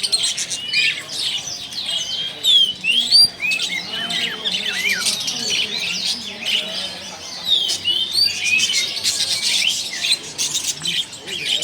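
Many caged songbirds chirping and calling at once: a dense chorus of short, high chirps and quick whistles that rise and fall, overlapping throughout, with sharp clicks among them.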